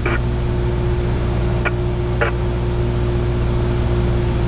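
Steady drone of a Cessna 172R's four-cylinder engine and propeller in flight, heard inside the cabin. Two short clicks come about two seconds in.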